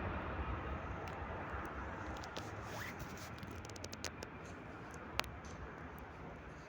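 Jet engine roar of a departing Airbus A320-212 with its CFM56 engines, a broad rumble fading steadily as the aircraft climbs away. Scattered sharp clicks and scratches run over it, one louder click about five seconds in.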